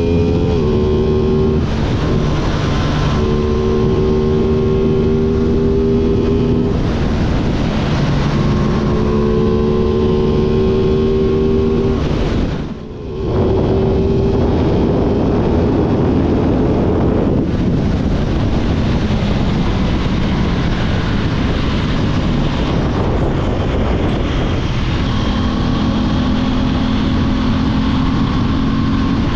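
Aprilia 660 parallel-twin motorcycle engine running under way. Its note holds a steady pitch for a few seconds at a time, then shifts to a new pitch, over a constant rushing noise. There is a brief drop in level about 13 seconds in.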